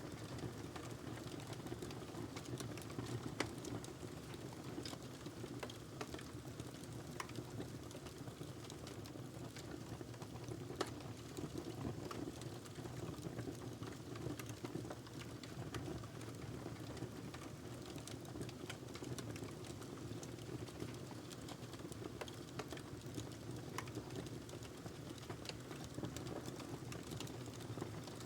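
Wood fire burning in a fireplace: a steady low rumble of flames with frequent scattered crackles and pops, two of them louder, about three seconds in and near eleven seconds.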